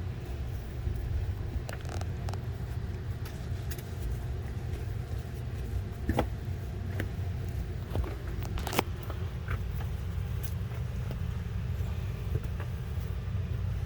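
Steady low rumble under scattered light clicks and knocks, a few seconds apart, as refrigerator racks and shelf parts are handled and fitted back in place. The sharpest knocks come about six and nine seconds in.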